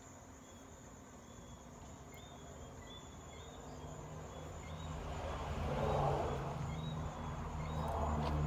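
Night insects (crickets) trilling steadily with short repeated chirps, while a low hum grows louder through the second half.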